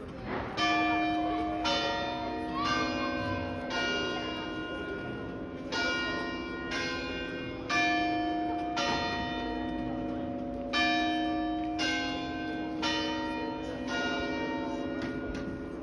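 Church tower bells chiming a carillon tune: single struck notes of different pitches, each left ringing, about one a second in three phrases of four notes with short pauses between, then a few more strikes near the end. This is the quarter chime for 11:45.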